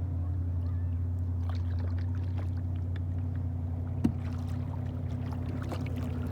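Kayak paddling on a lake: small splashes and drips of water from the paddle over a steady low hum, with one sharp knock about four seconds in.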